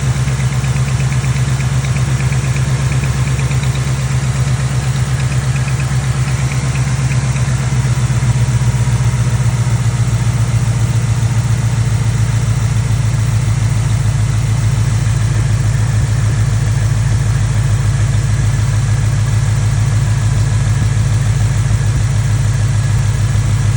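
2024 Mustang GT's 5.0-litre V8 idling after a cold start, with a faint, rapidly repeating high chirp over the idle that fades out about seven seconds in. The idle then settles slightly lower and runs steadily.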